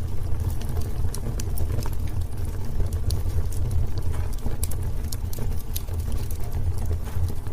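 Wood fire crackling in a fireplace: frequent irregular snaps and pops over a steady low rumble.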